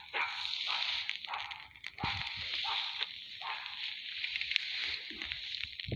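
Bonfire of damp leaf heaps burning, a steady hiss with many small crackles and pops.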